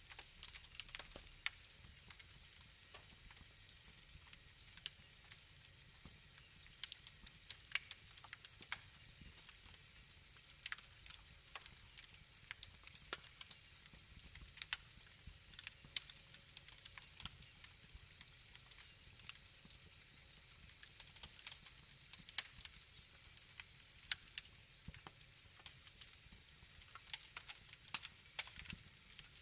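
Wood fire crackling: frequent irregular sharp snaps and pops over a faint low rumble.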